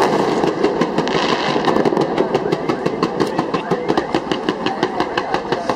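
Fireworks going off in a rapid, even string of sharp cracking bangs, about six or seven a second, over a continuous noisy wash.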